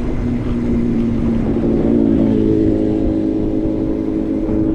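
A motor vehicle engine running close by, its pitch stepping up about two seconds in, over a steady low rumble of wind on the microphone.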